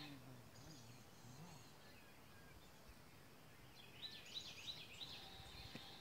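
Faint background noise, with a bird singing a quick run of about six high rising-and-falling chirps about four seconds in.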